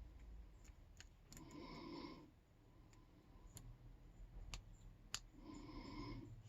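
Faint, scattered clicks of a lock pick and tension wrench working the pins of a Yale K300 padlock during single-pin picking, about five sharp ticks in all. Two soft breaths fall between them.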